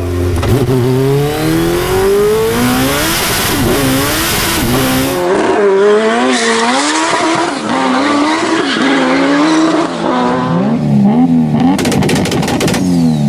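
The turbocharged Suzuki Hayabusa inline-four of a Reliant Bond Bug three-wheeler revving up and falling back again and again, heard in edited clips. A quick run of sharp pops comes near the end.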